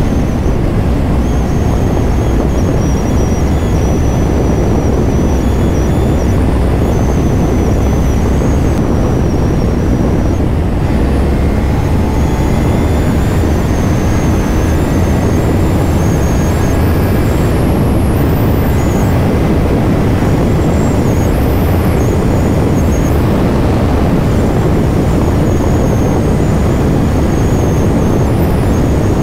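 Kawasaki Ninja 500's parallel-twin engine running steadily at riding speed under a heavy rush of wind noise on the microphone.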